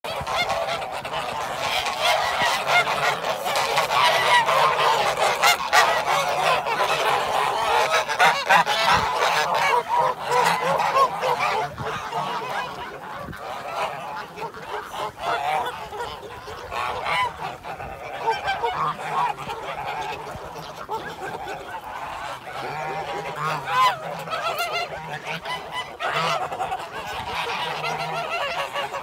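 A large flock of birds calling, many overlapping calls at once, busiest and loudest in the first dozen seconds.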